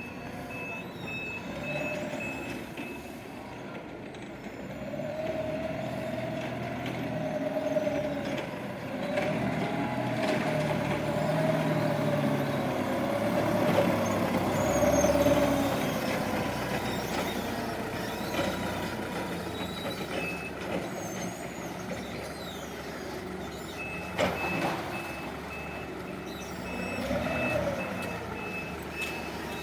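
Forklift at work: its reversing alarm beeps in quick, even pulses at the start and again for the last few seconds. In between, its motor whine rises and falls as it manoeuvres.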